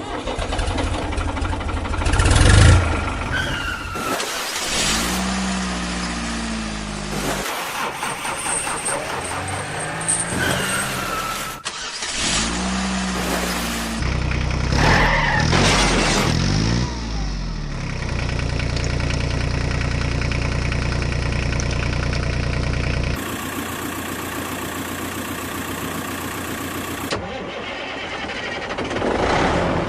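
Motor vehicle engine sounds in a string of short, abruptly cut pieces: an engine starting, revving up and down, and running steadily.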